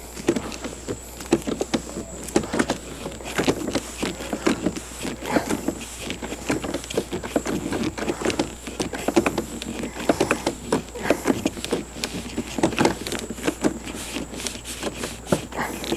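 A soaped pad being twisted and worked along a tube by hand, giving a string of irregular short squeaks and rubbing sounds.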